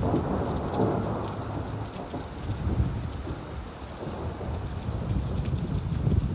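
Steady rainfall over a low rolling rumble of thunder. The thunder swells at the start and dies away over the next couple of seconds.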